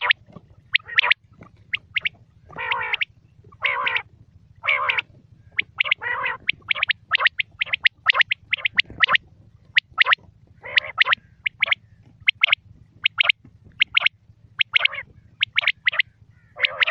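Quail calling: quick runs of short, sharp, high calls, mixed with a number of harsher, rasping calls about half a second long. A faint steady low hum runs underneath.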